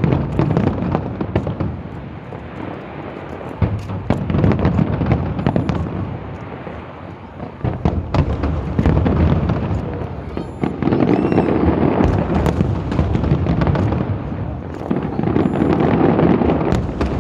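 Fireworks display: a dense, continuous run of booms and crackling, swelling louder several times.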